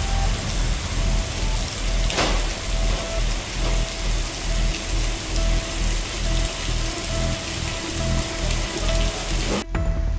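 Heavy rain falling on pavement and standing water: a dense, steady hiss that cuts off abruptly near the end.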